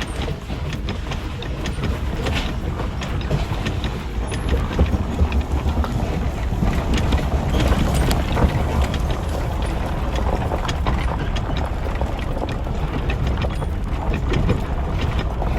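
Pickup truck driving along, a steady rumble of engine and road noise with some wind on the microphone.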